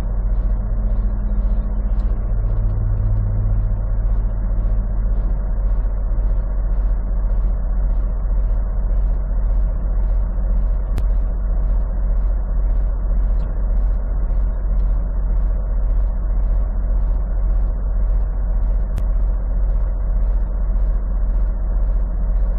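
Semi truck's diesel engine running steadily, a deep, even hum heard from inside the cab, with a faint regular tick about one and a half times a second.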